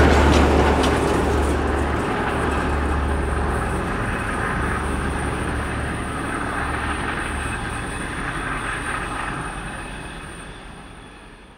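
A train rolling past and receding, its rumble and wheel noise fading steadily away, with a thin, steady high tone held above it.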